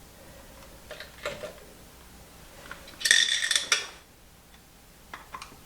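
Small metal parts clinking as the wire retaining ring and spring are worked onto the starter motor's pinion gear shaft: a few clicks about a second in, then a burst of ringing metallic jingling lasting nearly a second, and a few light clicks near the end.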